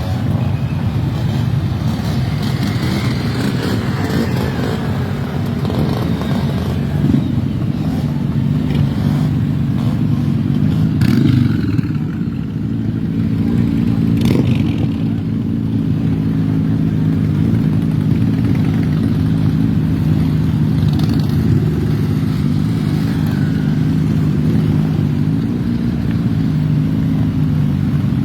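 Motorcycle engines running, revving in the first half. From about halfway through, an engine idles steadily, with a couple of sharp clicks just before it settles.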